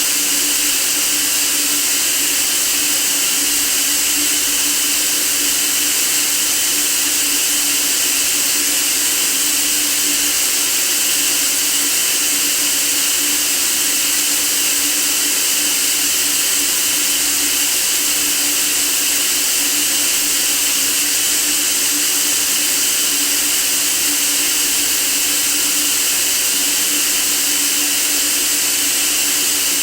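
Steady white noise for sleep: an even, unchanging hiss that is strongest in the high pitches, with a faint steady low hum beneath it.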